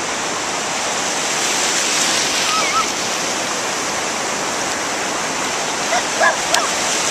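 Steady rush of ocean surf mixed with wind on the microphone.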